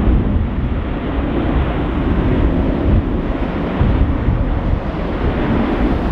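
Strong gusty wind buffeting the microphone: a loud, uneven rumble.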